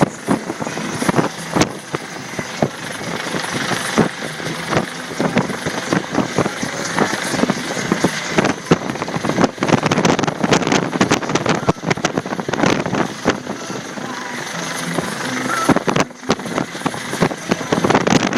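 US Coast Guard helicopter's rotor and engine noise, heard as a loud steady rush broken by irregular sharp knocks of wind buffeting the microphone.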